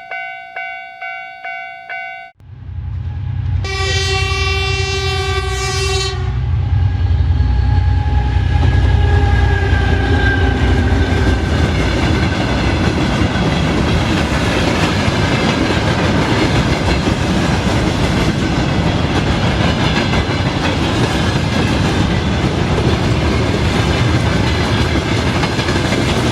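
Railroad crossing warning bell dinging about two and a half times a second. A train then arrives with a long horn blast of a couple of seconds, followed by the steady heavy rumble and clickety-clack of the train running over the rails.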